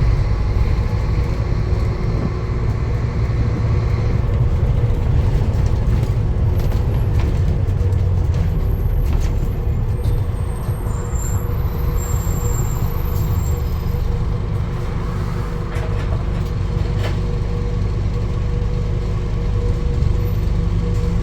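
A motor vehicle running with a steady low rumble. A few brief high squeaks come about ten seconds in.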